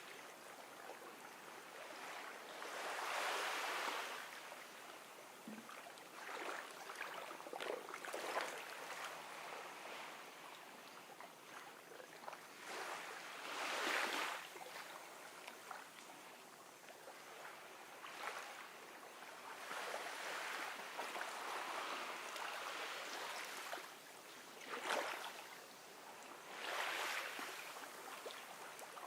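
Gentle ocean waves lapping on a beach, swelling and receding every few seconds as each small wave washes in.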